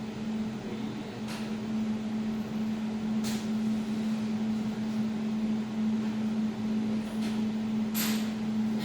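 200-watt jewelry laser welding machine running with a steady hum while it gets ready after the laser is switched on. A few short sharp clicks are heard over it, the loudest near the end.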